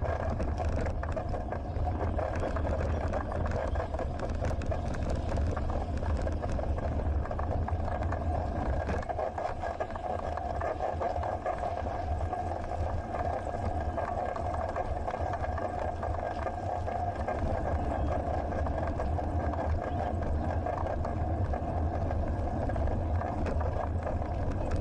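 Wind rushing over an action camera's microphone with tyre and road noise from a bicycle riding steadily along, a constant low rumble with a steady midrange hum.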